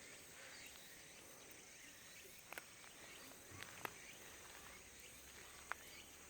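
Faint steady high-pitched trilling of insects in grass, with three brief sharp sounds standing out over it.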